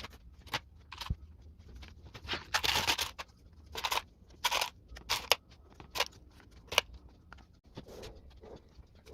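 Scattered sharp clicks and short scraping rustles, with the longest and loudest scrape about three seconds in.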